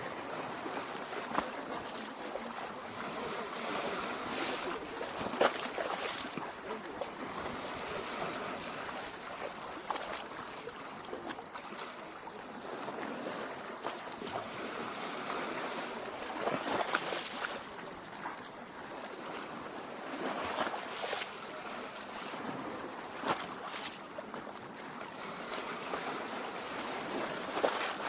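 Small lake waves lapping at the shore: a steady wash of moving water broken by irregular small splashes.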